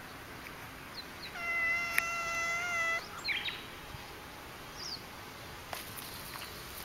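A domestic cat gives one long, steady yowl of nearly two seconds, about a second in, while confronting a coiled snake.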